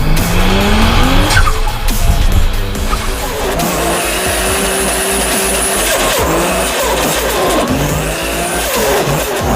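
Turbocharged car engine revving up, then cars passing with their engine pitch rising and falling, over background music.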